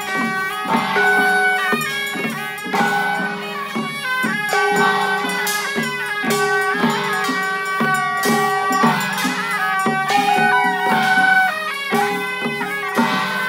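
Traditional Chinese temple-procession music: a loud, sustained reed wind melody over drum and percussion strikes.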